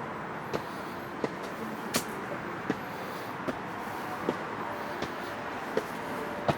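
Footsteps at a steady walking pace, about one sharp step every three-quarters of a second, over a steady hum of distant city traffic.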